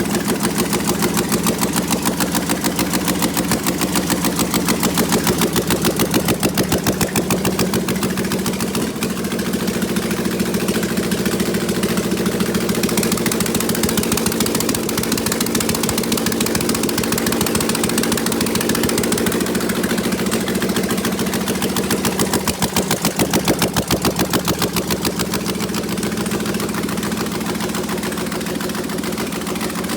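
A 6.0-litre GM LS V8 idling steadily on a test run with no exhaust headers fitted, so it fires straight out of open exhaust ports in a loud, raw, even beat.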